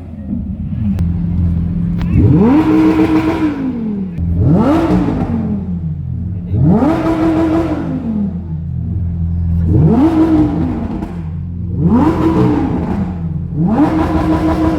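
A car engine being revved repeatedly from idle, six times. Each rev climbs quickly, holds for about a second, then drops back to idle.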